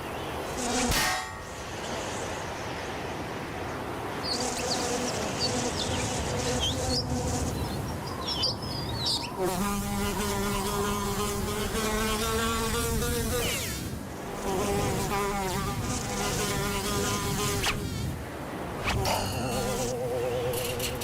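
Cartoon insect wing buzzing: several buzzes that waver and shift in pitch over a steady hiss, with a short sharp hit about a second in.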